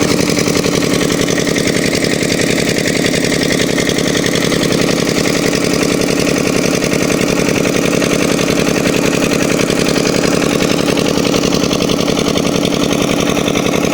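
An engine running steadily at a constant speed, with no change in pitch or load.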